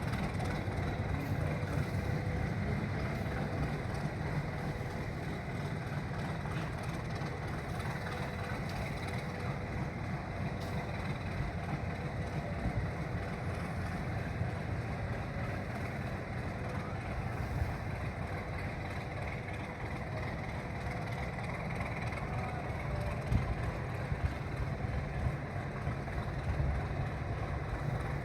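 Alco RS8 diesel locomotive engine running steadily, with a low, even drone. A few short knocks come near the end.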